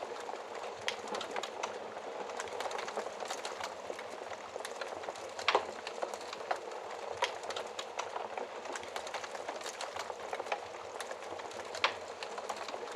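Fireplace fire crackling: a steady hiss with frequent small crackles and a few louder pops, the loudest about five and a half seconds in and again near the end.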